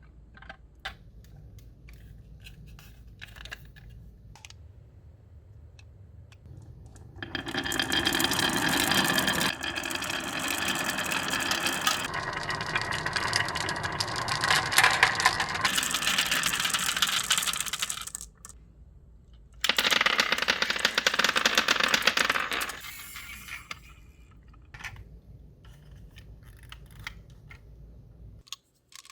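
Marbles rolling and clattering along a rain-gutter and wooden-rail marble run. Scattered clicks give way to a long, loud, dense rolling rattle that lasts about ten seconds. It breaks off briefly, comes back in a second loud burst for a few seconds, then thins out to scattered clicks again.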